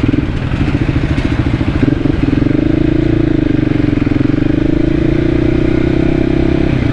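Voge 300 Rally motorcycle's single-cylinder engine running at low road speed. The revs rise about two seconds in, hold steady, then ease off near the end.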